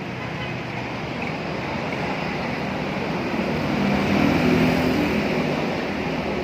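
Steady street traffic noise, with a motor vehicle's engine swelling as it passes, loudest about four and a half seconds in.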